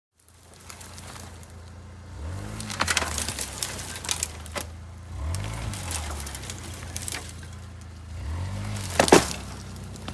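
Suzuki Escudo's engine running under load, revving up and dropping back about every three seconds, as when working through deep snow. Sharp cracks and knocks come in between, the loudest about nine seconds in.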